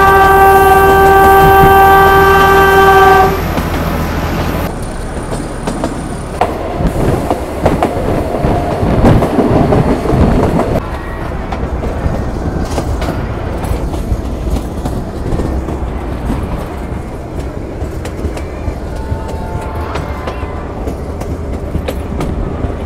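Narrow-gauge diesel locomotive's horn sounding one long blast for about three seconds. Then the train running on, with the steady rumble and clatter of its wheels on the rails, louder for a few seconds in the middle.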